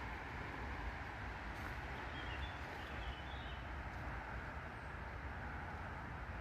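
Steady low outdoor background rumble, with a few faint high bird chirps about two to three seconds in.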